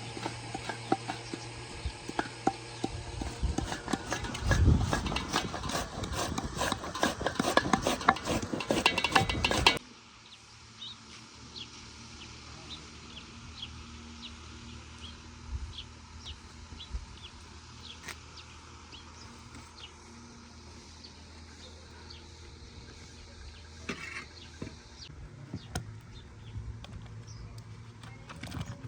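Hand food-preparation sounds: a dense run of rapid scraping and knocking for about ten seconds that cuts off suddenly, followed by quieter, scattered light clicks and taps.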